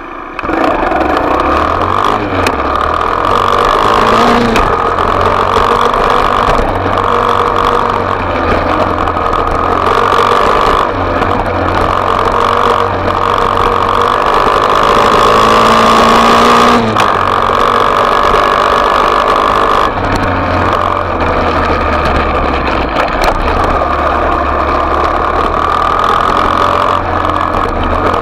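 Small off-road motorbike engine running as it is ridden, the revs rising and falling. The pitch climbs steadily to its highest about 16 seconds in, then drops suddenly.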